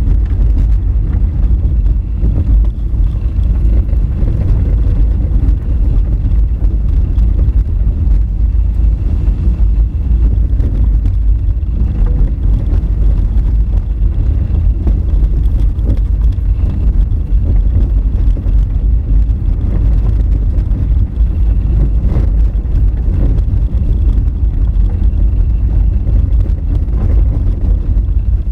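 Honda Fit car driving on an unpaved forest road: a loud, steady low rumble of tyres and engine, with a few short knocks now and then.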